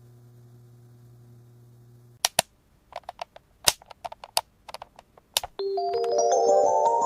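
A faint steady hum, then a quick irregular string of sharp clicks and taps, as of hard plastic toy pieces. About two-thirds of the way in, a loud electronic jingle starts, its notes climbing step by step in pitch.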